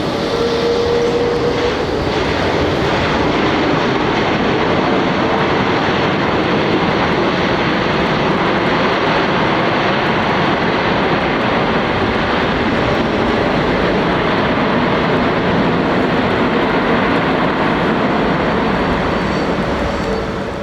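Jet airliner passing with its engines running: a loud, steady rushing noise, with a brief whine about a second in.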